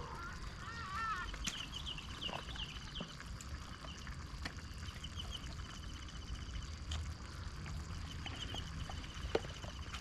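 Birds calling in a forest: a warbling call at the start, then repeated rapid trills, over a low steady rumble.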